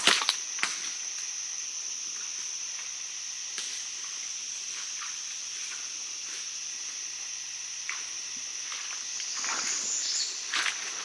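A steady high-pitched insect chorus drones without a break. A few short crackles come near the start and again near the end.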